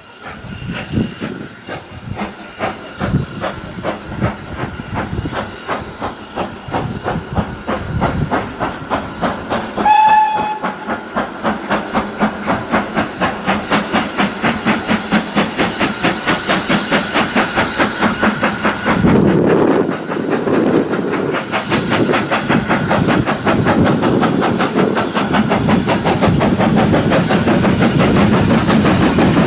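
Steam locomotive pulling away under load. Its exhaust beats start as slow, separate chuffs and quicken into a fast, even rhythm, with a short whistle blast partway through.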